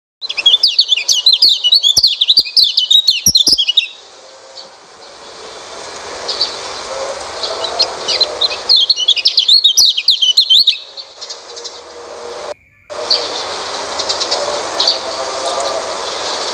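White-eye (pleci) song: loud bursts of rapid, high, warbling twitter, one of about three and a half seconds at the start and another of about two seconds near the middle, with softer chirping over a background hiss between and after. The audio drops out briefly about twelve and a half seconds in.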